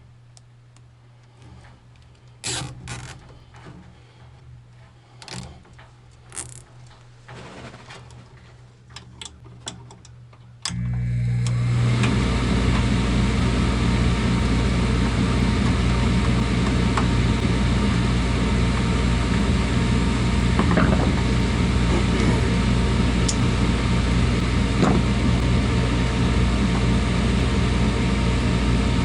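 A few light clicks and knocks, then about a third of the way in a machine starts suddenly with a low hum and builds within a second to a steady, loud, whooshing run.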